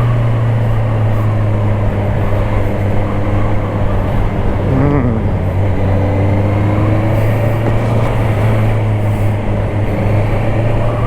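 Honda CBR650R's inline-four engine running at a steady pitch while the bike is ridden, with road and wind rush over the microphone.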